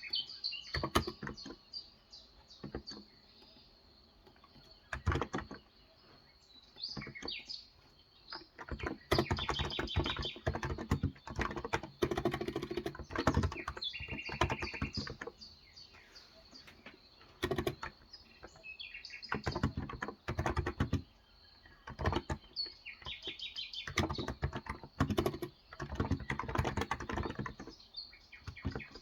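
Typing in uneven bursts with pauses between them on a Cox Endeavour electro-capacitive (contactless) tenkeyless keyboard with 35 g switches, and birds chirping in the background.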